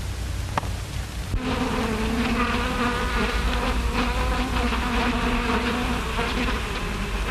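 Bees buzzing, a sustained droning buzz that starts about a second and a half in and wavers slightly in pitch, over the steady hiss and hum of an old film soundtrack.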